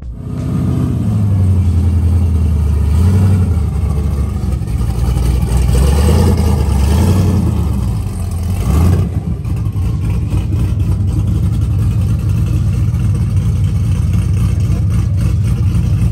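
Loud muscle-car engines of cars driving off, revved up and down several times in the first half, then running with a steady deep rumble from about nine seconds in.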